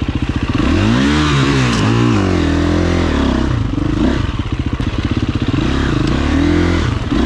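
Dirt bike engine revving hard, its pitch rising and falling several times as the throttle is worked, with some clatter from the rough ground.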